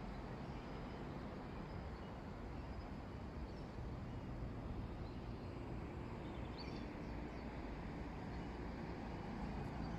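Quiet outdoor ambience: a steady low rumble, with a few faint bird chirps around the middle.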